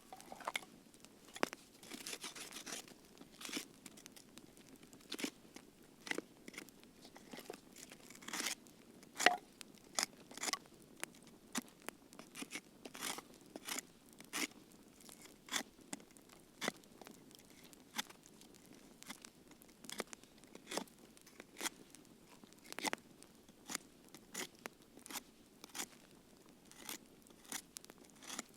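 Wood campfire crackling: irregular sharp pops and snaps, sometimes several a second, over a soft low hiss of burning, with the loudest pop about nine seconds in.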